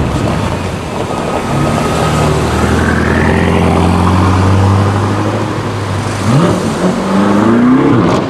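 BMW M5 F10's twin-turbo V8 pulling away at low revs with a steady low note, then rising in pitch as it accelerates hard a couple of seconds before the end.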